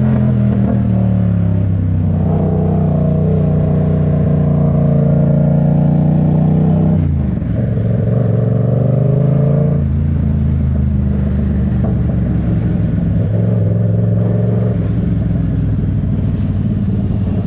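Vehicle engine running under way, its pitch climbing slowly, dropping sharply about seven seconds in, then holding fairly steady.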